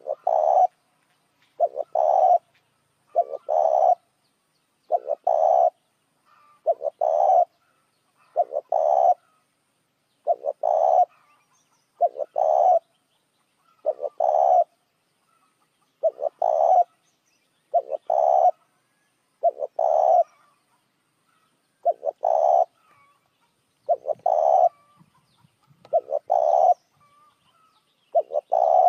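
Spotted dove cooing, a lure call for attracting doves, its short coo phrase repeating evenly about every one and a half to two seconds.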